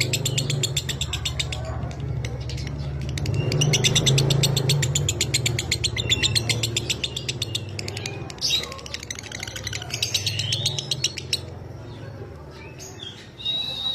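Lovebird chattering in rapid, rattling trills (the 'ngekek' song), several bursts of one to two seconds with short gaps. A low steady hum runs underneath.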